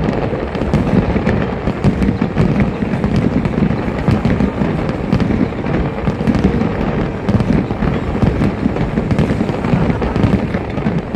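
Aerial fireworks exploding in dense, continuous succession, deep booms overlapping with sharp crackling reports, with no lulls.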